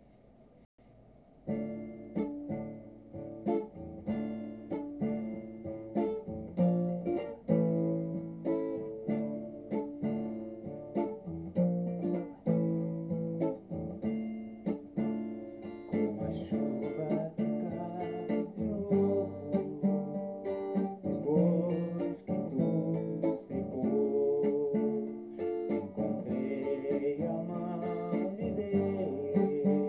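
Acoustic guitar playing chords and plucked notes, starting about a second and a half in.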